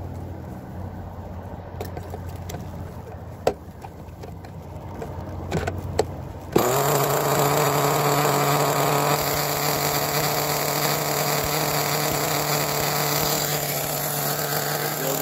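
Red Cat Earthquake 3.5 RC truck's small nitro engine being pull-started with the glow igniter on: a few sharp clicks, then about six and a half seconds in it catches suddenly and keeps running steadily.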